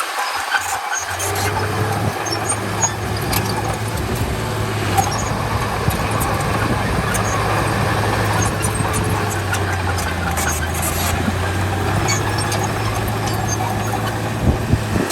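Heavy diesel earthmoving machinery running steadily under a low engine hum, with scattered clicks and clatter; it starts about a second in and cuts off near the end.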